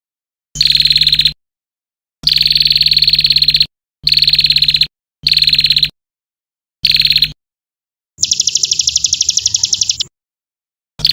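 Edited masteran recording of songbird calls: a rapid, rattling high trill repeats in short bursts of about half a second to a second and a half, each cut off abruptly into silence. Near the end comes one longer, higher and buzzier trill. A low hum runs under each burst.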